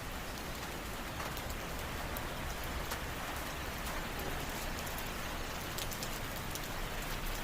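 Steady rain falling, a constant hiss with many fine drops ticking on surfaces.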